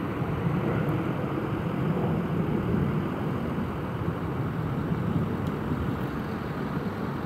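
Jet airliner engine noise, a steady rumble that neither rises nor falls.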